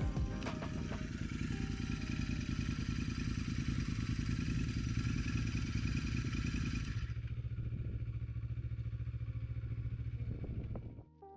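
Motorcycle engine running at a steady pace with fast, even firing pulses. A high hiss drops away about seven seconds in while the engine runs on, then the sound cuts off abruptly near the end.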